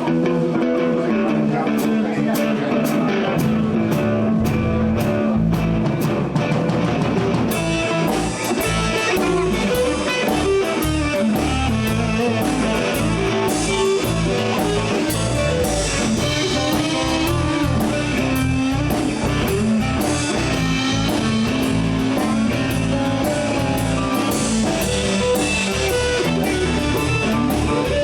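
Live blues band playing an instrumental passage: electric guitar over bass and drums. The sound fills out and gets brighter about seven seconds in.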